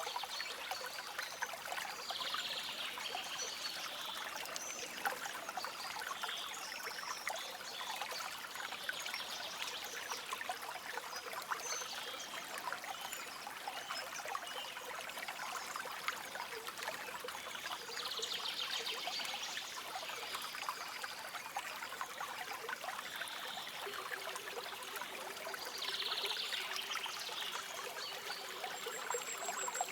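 Small stream trickling and babbling steadily over stones, with short bird chirps scattered through, a few of them standing out clearly.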